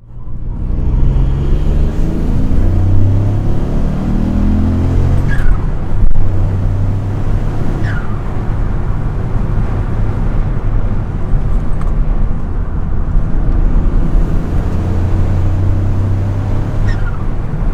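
Car engine running with a loud low drone, its pitch rising during the first five seconds as it accelerates, then holding steadier. A click about six seconds in and a few short, high falling squeaks stand out above it.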